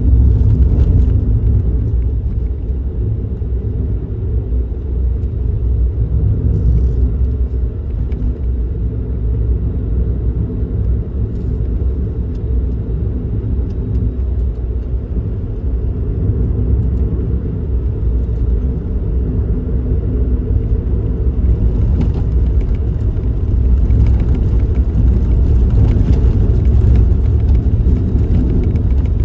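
Suzuki Kei Works car driving along the road: a steady low rumble of engine and road noise, rising a little near the end.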